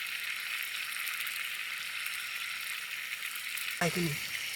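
Marinated chicken pieces sizzling steadily in butter and oil in a pan over a campfire, the water from the chicken still cooking off. A brief voice comes in near the end.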